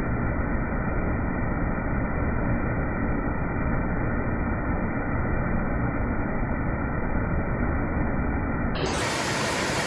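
Steady rush of a waterfall, muffled with no highs. Just before the end it changes abruptly to a brighter, fuller rush of water.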